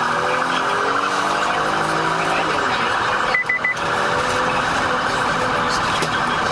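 Police car siren sounding continuously in a fast-cycling wail, with lower gliding tones underneath. Three short high beeps come about halfway through.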